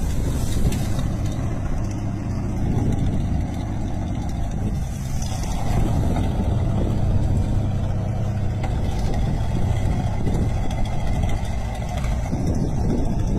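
A truck's engine running steadily, with a low hum that holds level throughout.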